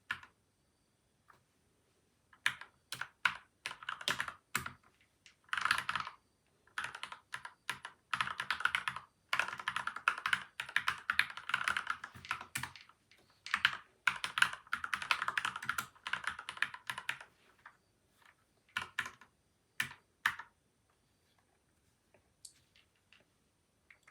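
Typing on a PCL87 mechanical keyboard with lubed Gateron milky white and Outemu yellow switches, taped and foam-dampened: after a single keystroke, bursts of rapid key presses begin about two and a half seconds in, fastest from about six to seventeen seconds in with short pauses, then a few separate keystrokes and faint taps near the end.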